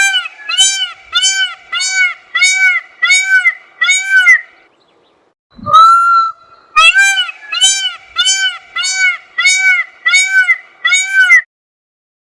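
A bird's honking call, given twice: each time a long held note, then a quick regular run of about eight arched honks, roughly two a second.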